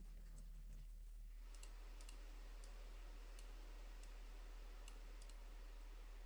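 Faint, irregular clicks of a computer mouse, about eight of them, over a low background hiss.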